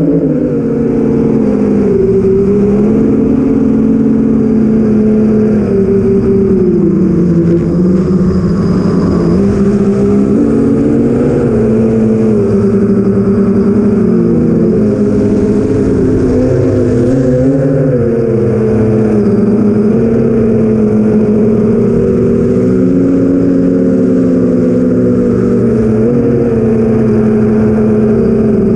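8-inch FPV quadcopter in flight, its four brushless motors and props humming loudly, heard from the camera on board. The pitch rises and falls repeatedly as the throttle changes.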